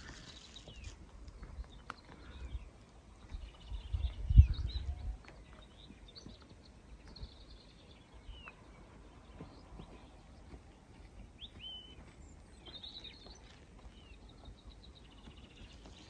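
Songbirds singing and calling on and off, short chirps and quick trills from several birds. A low rumble on the microphone swells and peaks about four seconds in, then settles.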